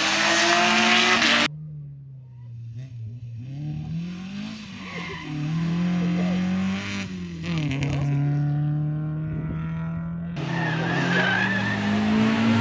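Rally car engines revving hard, the engine note rising and falling as the cars accelerate and shift. The sound changes abruptly twice, as between separate shots, with a quieter passage in the middle.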